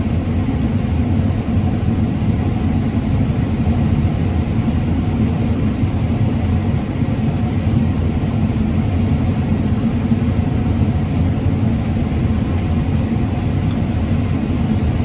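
Combine harvester running steadily under load while harvesting corn: a constant low engine and machinery drone.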